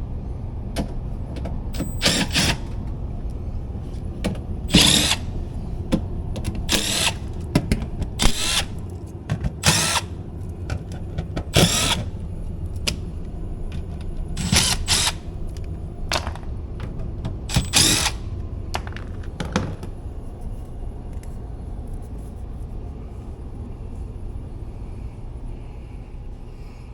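Power drill backing screws out of an air-handler access panel, in about ten short spins of under a second each over the first twenty seconds, then stopping.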